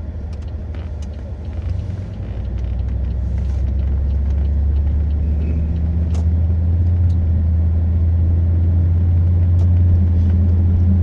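Interior drone of a Pontiac Grand Prix on the road: steady low engine and road noise that builds from about two to four seconds in as the car picks up speed, then holds level, with scattered faint ticks.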